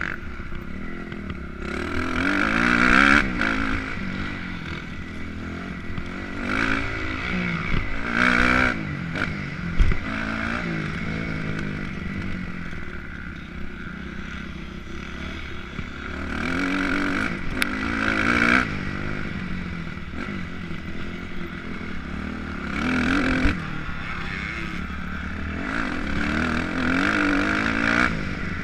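Motocross dirt bike engine revving up and dropping off again and again as the throttle is worked, picked up by a GoPro. There is a sharp knock about ten seconds in.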